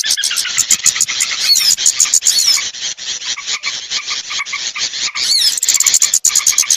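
Small songbirds calling in a dense, rapid chatter: short sharp chirps several a second, with now and then a quick whistled glide. A recording played to lure small birds down.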